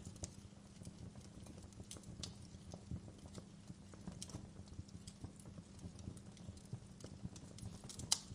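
Wood fire crackling, with irregular snaps and pops over a low steady background, and one sharper, louder pop near the end.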